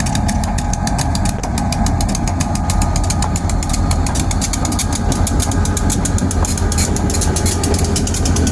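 Diesel locomotives running as they pull up, a steady low engine rumble.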